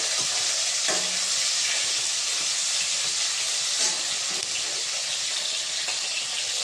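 Chicken pieces frying in hot oil in a steel pan: a steady sizzle, with a couple of light knocks about a second in and near the middle.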